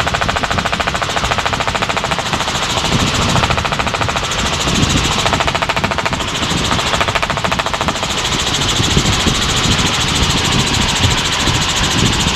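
Helicopter rotor and engine noise heard inside the cabin in flight: a loud, steady, fast beating.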